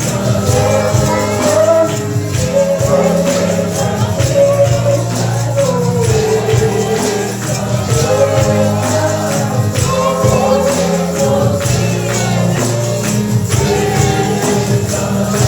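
Congregational gospel singing with a tambourine shaken and struck in a steady rhythm over a band with bass.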